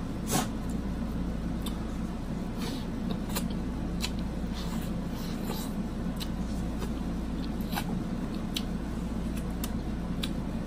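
Biting and chewing sauced boiled corn on the cob, heard close up as scattered wet mouth clicks and smacks, with a sharper one about a third of a second in. A steady low hum runs underneath.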